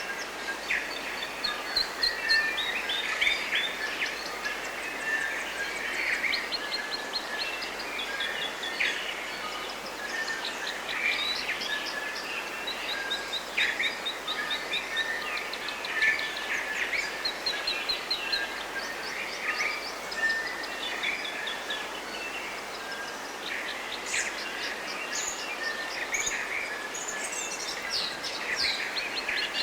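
Several birds singing and calling throughout, including quick runs of short high notes, over a steady background hiss.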